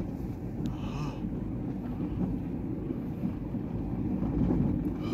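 Steady low rumble of a passenger train running, heard from inside a sleeper carriage.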